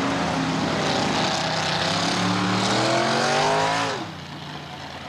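Monster truck engines racing at full throttle, pitch climbing as they rev higher, then dropping away sharply about four seconds in as the throttle is let off.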